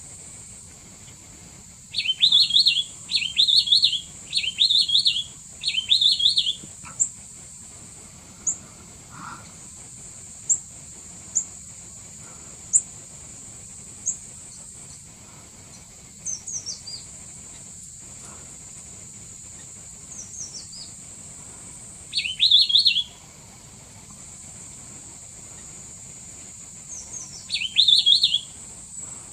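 Mishmi wren-babbler calling in short, loud, jumbled phrases: four in quick succession early on, another just after the middle and one near the end, with scattered single sharp high notes and short falling notes between. A steady high-pitched insect drone runs underneath.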